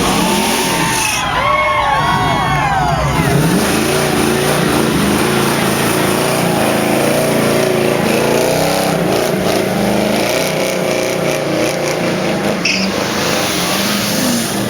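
Car engine revved in quick rises and falls, then running loud with its pitch wavering up and down.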